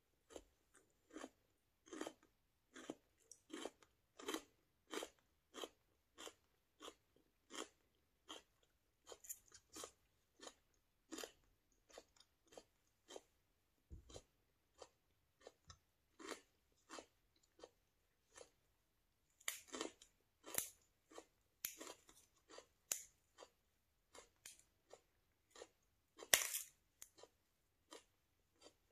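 A person chewing crunchy raw vegetables, a steady crunch about one to two times a second, with a few louder crunching bites about two-thirds of the way through.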